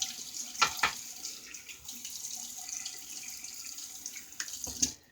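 Water running from a tap into a sink, a steady hiss, with two sharp sounds about a second in and another just before the water stops near the end.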